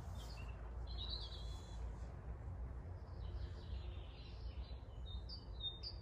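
Small birds singing faintly in the open: a short warbled phrase about a second in and a few high chirps near the end, over a steady low rumble.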